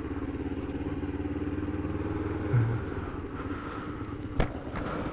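Kawasaki GPZ500's parallel-twin engine running at low, steady revs, an even pulse. A brief louder low tone comes about two and a half seconds in, and a sharp click near the end.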